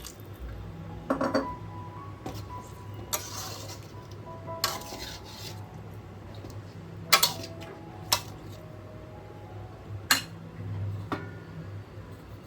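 Metal utensil clinking against a metal kadai as the chicken and water are stirred: about eight separate clinks spread out, some ringing briefly, over a steady low hum.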